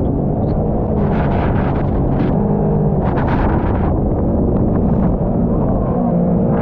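Jet ski engine running at speed with heavy wind buffeting the microphone and water splashing in short bursts.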